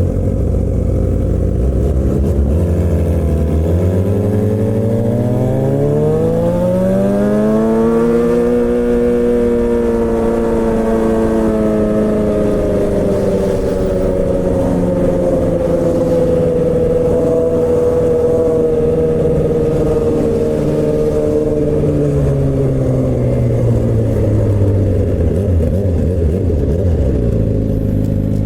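Suzuki GSX-R600 (K7) inline-four running through a straight-pipe M4 exhaust with no catalytic converter, ridden on the road. The engine note climbs smoothly for several seconds a few seconds in, holds high and fairly steady for a long stretch, then drops away near the end as the bike slows.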